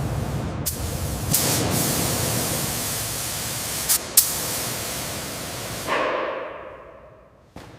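A steady, loud hiss like spraying, with a few short sharp clicks, dying away over the last two seconds.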